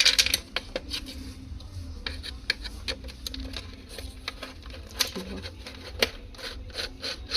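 Irregular small clicks and taps of hands and a tool on the plastic and metal parts of a mixer grinder as its lid safety switch is taken out, over a faint low hum.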